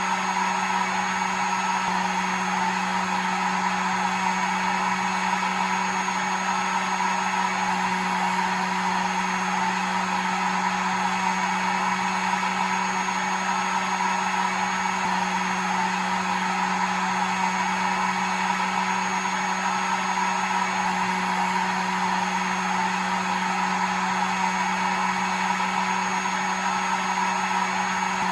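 Hair dryer running continuously: a steady rush of air over a constant motor hum, with a faint high whine.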